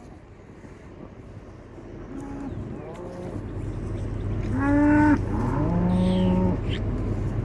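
Longhorn cows mooing: several calls, some overlapping, begin about two seconds in and grow louder, over a low steady hum.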